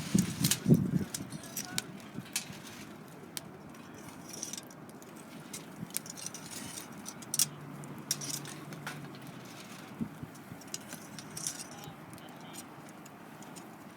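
Wood fire of white birch and sawtooth oak crackling, with irregular sharp pops throughout. A cluster of louder knocks and clatter comes in the first second.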